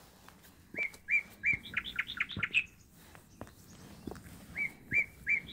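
A songbird sings the same short phrase twice: a few level whistled notes leading into a quick run of sharp notes. Footsteps tap on a stony trail underneath.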